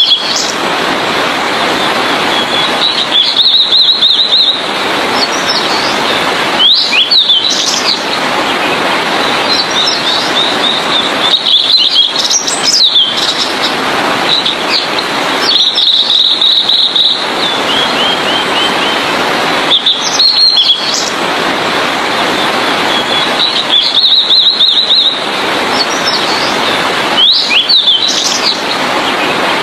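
Blue-and-white flycatcher singing: short high twittering phrases with quick sweeping notes, repeated every few seconds over a steady loud hiss.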